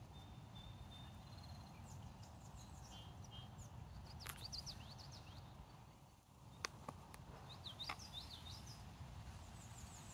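Small birds chirping faintly in short, quick runs of high notes, with a thin high whistle near the start, over a low steady background rumble. A few sharp clicks come through, the loudest a little past the middle.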